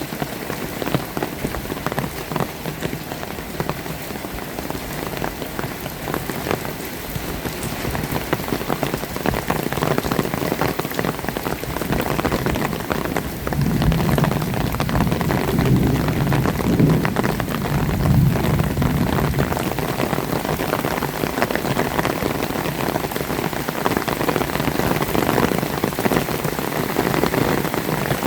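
Heavy rain falling steadily, dense drops pattering on surfaces. A low rumble swells about halfway through and dies away a few seconds later.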